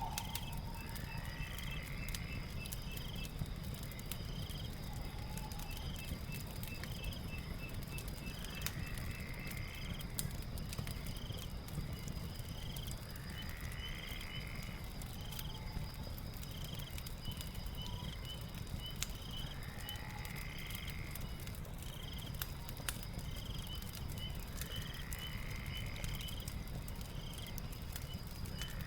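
Night ambience with a crackling fire: scattered sharp pops and crackles over a steady low rumble, insects chirping in a fast, steady rhythm, and a rising call repeated about every five to six seconds.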